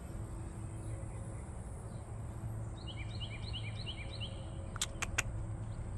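Steady low background hum with a bird chirping in the middle: a rapid run of short rising chirps lasting about a second and a half. Two sharp clicks follow near the end.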